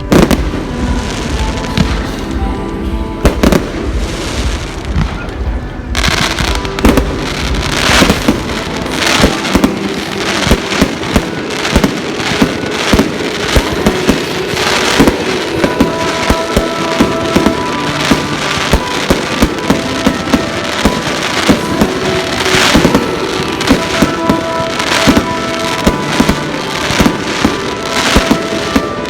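Fireworks display: a rapid series of bangs and crackles from bursting shells, denser after the first few seconds, with music playing underneath.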